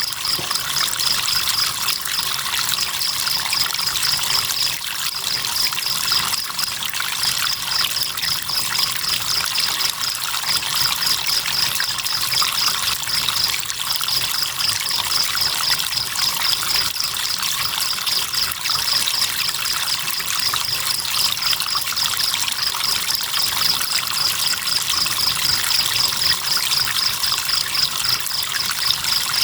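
River water trickling steadily, with crickets giving a high, fast, pulsing trill that stops briefly now and then.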